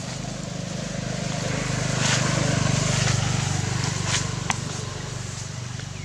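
A motor vehicle engine running with a steady low hum, growing louder to a peak about halfway through and then fading, as if passing by. A sharp click sounds a little after the peak.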